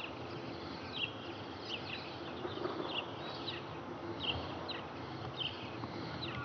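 A small bird chirping over and over, short high falling notes about once or twice a second, over a steady background hiss.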